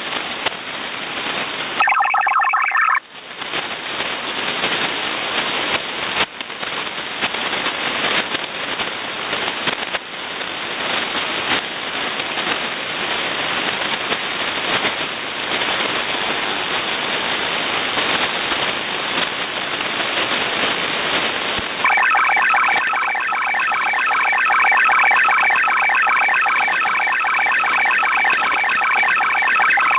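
Shortwave radio receiver on upper sideband, hissing with atmospheric static and crackles on an open channel. About two seconds in comes a brief burst of stacked data tones. From about two-thirds of the way through to the end, a longer multi-tone digital data signal warbles over the hiss.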